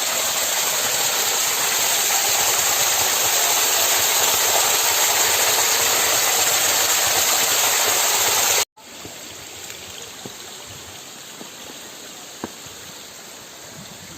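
Waterfall rushing, a steady loud hiss. It cuts off abruptly about two-thirds through and gives way to a much quieter steady rush of water.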